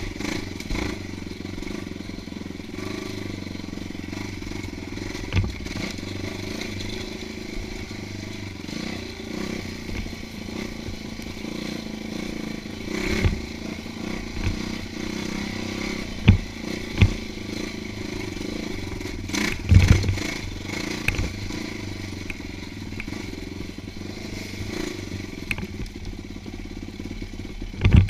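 Dirt bike engine running steadily as it is ridden along a rough trail, with several sharp knocks and thumps from the bike over the terrain.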